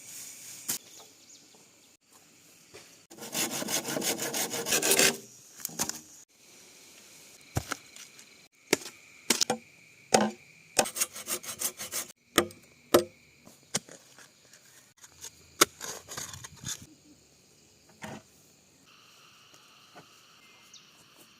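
Bamboo being hand-sawn in quick strokes for about two seconds, followed by a scattered run of sharp knocks and taps on wood.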